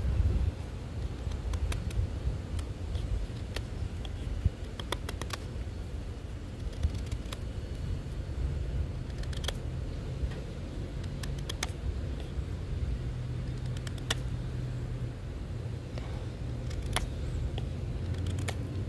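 Benchmade Volley folding knife cutting into hard oak heartwood: irregular sharp clicks and snaps as the blade bites the wood. Under it runs a steady low rumble of street traffic.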